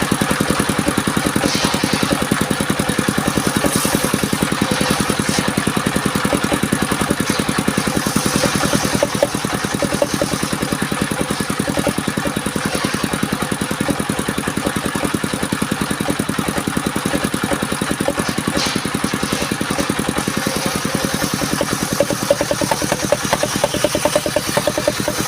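A mobile circular sawmill's engine running steadily at an even speed.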